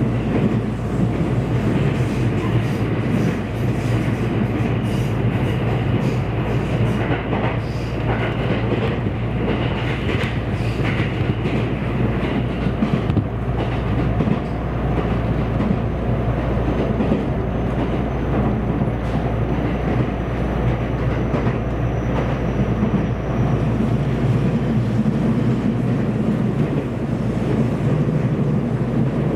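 Interior running noise of a JR West 227 series electric multiple unit cruising between stations: a steady low rumble of wheels on rail with light clickety-clack of rail joints. A faint high steady tone sounds for several seconds midway.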